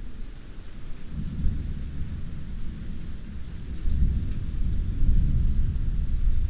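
Heavy rain hissing steadily, with a long roll of thunder that rumbles in about a second in and swells to its loudest near the end.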